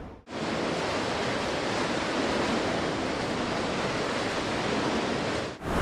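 Steady rush of Mediterranean sea surf washing through the sea grottoes, cut in abruptly shortly after the start and cut off just before the end.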